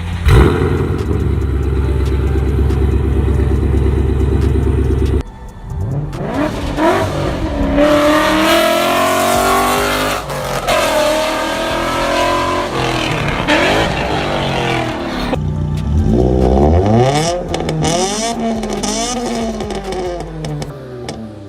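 Car engine with a newly fitted aftermarket exhaust, running steadily at first, then revved several times, its pitch rising and falling with each rev.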